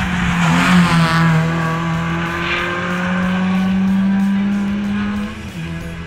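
Ford Fiesta ST150 rally car's engine at high revs as the car speeds past. The engine note dips briefly under a second in, then pulls steadily and slightly rising before cutting off abruptly about five seconds in.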